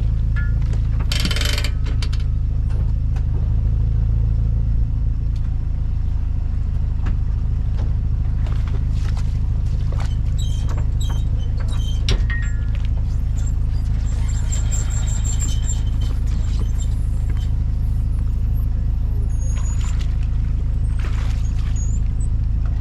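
Steady low rumble of a motor vehicle under way, engine and road noise running evenly, with a few faint clicks and rattles.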